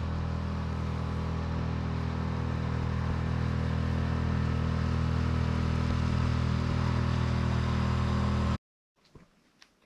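A motor engine running with a steady hum, growing slowly louder, until it cuts off abruptly near the end.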